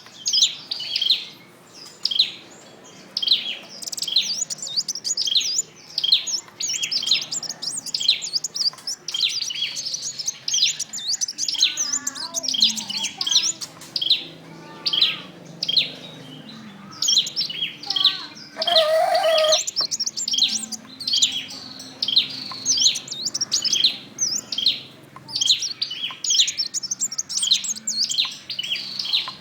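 Male sunbird calling with rapid high chirps, several a second and almost without pause, in a territorial reaction to its own reflection, which it takes for a rival male. About two-thirds of the way through, a brief lower-pitched sound lasting about a second cuts across the chirping.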